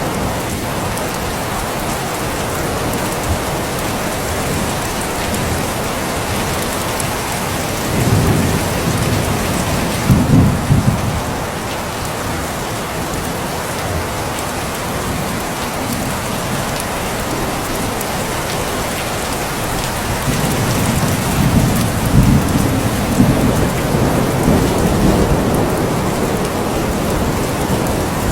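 Steady rain falling, with low rolls of thunder: two short ones about eight and ten seconds in, and a longer rumble through the last third.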